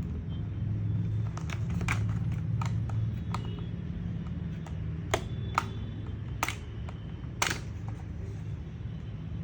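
Plastic bottom cover of an MSI GP73 Leopard 8RE laptop being pried off: a string of irregular sharp clicks and snaps as its clips let go, the loudest about five and seven and a half seconds in, over a steady low hum.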